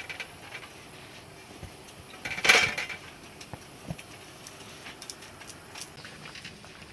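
Light clicks and knocks of tableware being handled while eating, with one louder clatter about two and a half seconds in.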